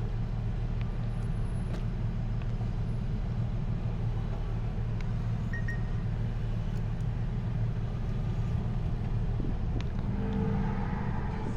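Steady low vehicle and road rumble, even in level throughout, with no single motor sound standing out.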